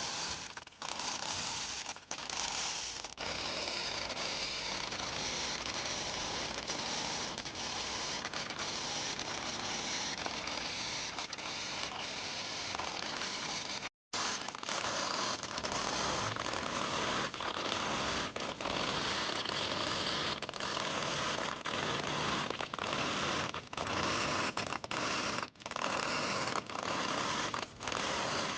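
Small jet sprayer blasting water over a miniature die-cast model car: a steady hiss broken by short pauses every few seconds.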